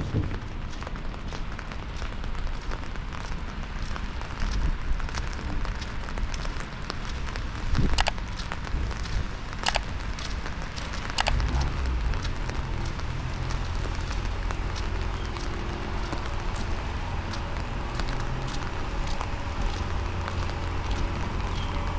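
Rain falling and pattering, a steady crackly hiss dotted with close drop ticks and a few sharper taps near the middle. A low rumble joins about halfway through.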